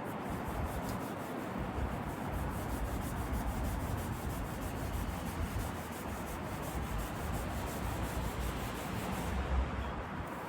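Hand sanding on a car seat: quick, steady back-and-forth rubbing of an abrasive that stops near the end.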